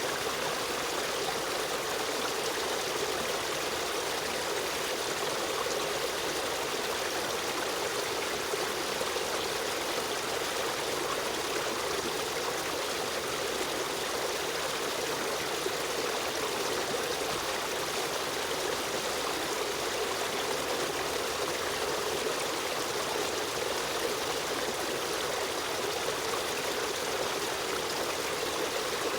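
Stream of running water, flowing and trickling in a steady, unbroken rush.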